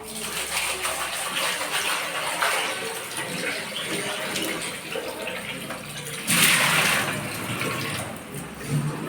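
Tap water running into a sink while pots are washed, with a brief louder rush of water a little over six seconds in.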